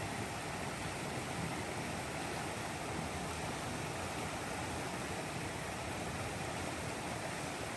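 Steady rush of a mountain stream's flowing water, an even, unchanging noise.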